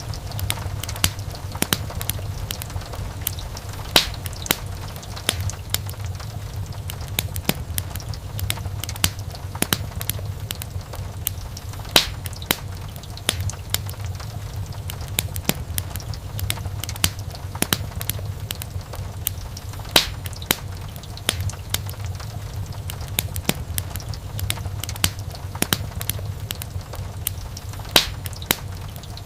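Wood fire in a fireplace crackling steadily, with many small pops and snaps over a low rumble. Sharper, louder pops stand out about every eight seconds.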